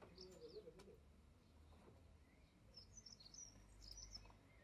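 Faint birdsong: small birds chirping in quick high notes, a few at the start and a longer run from about three seconds in, over a faint low steady rumble. Otherwise near silence.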